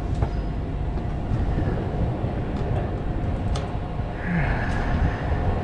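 Steady rumbling wind and tyre noise on a camera riding along on a mountain bike on a dirt flow trail, with a few light clicks and a brief higher-pitched squeal about four seconds in.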